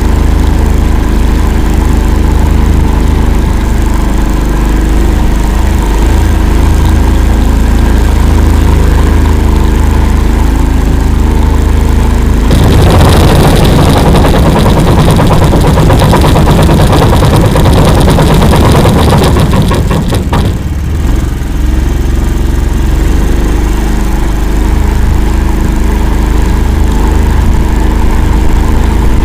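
All-terrain vehicle's engine running steadily and loudly. Midway through, a rougher, louder rush of noise covers it for about eight seconds, then it drops back to the steady engine sound.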